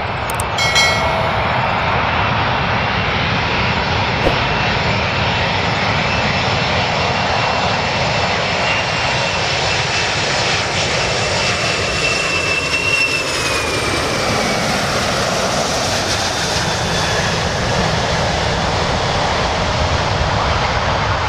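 Airplane engines running loud and steady at close range, with a thin high whine that falls in pitch about thirteen seconds in as the aircraft passes.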